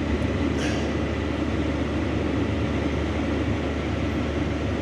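A truck running steadily, with an even low rumble and road-like hiss.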